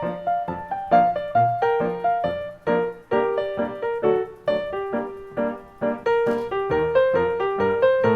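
Background piano music: a steady run of struck notes, several a second, each fading before the next.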